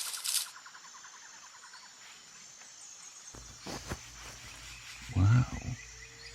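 Jungle ambience with insects chirping. A loud hissing sound cuts off just after the start. About five seconds in, a man's voice makes a short, low, wordless sound.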